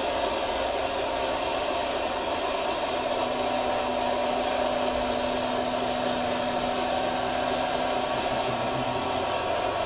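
Small electric motor of a radio-controlled construction model whirring steadily, with an even hum that holds throughout.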